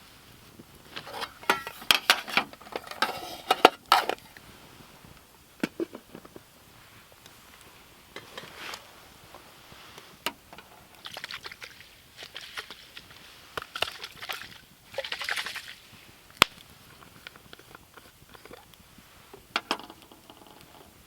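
Intermittent handling noises: bouts of rustling and crinkling with sharp clicks, and a few single sharp knocks.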